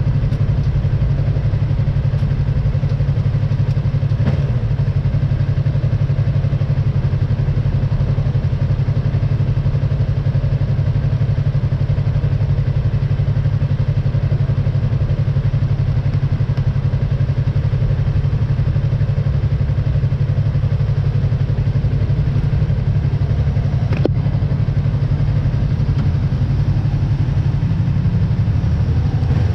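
Yamaha MT-03 motorcycle engine idling steadily while stopped, an even low hum with no revving.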